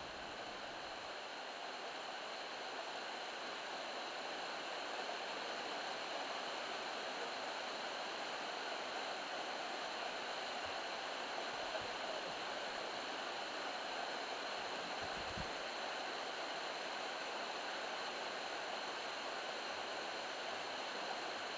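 Steady rushing of a distant waterfall, Katoomba Falls, growing slightly louder over the first few seconds and then holding even.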